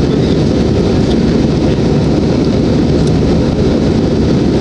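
Airliner jet engines at high power, a loud, steady, deep rumble heard inside the passenger cabin during takeoff.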